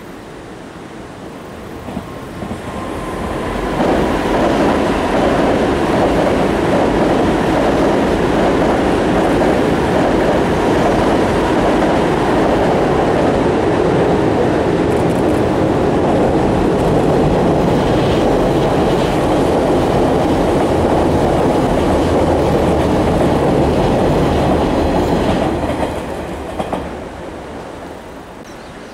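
Two electric trains, an E351 series Super Azusa limited express and the 485 series 'Hana' joyful train, passing each other on a steel girder railway bridge, with a loud rumbling clatter of wheels over the bridge. It builds over the first few seconds, holds steady for about twenty seconds and fades near the end.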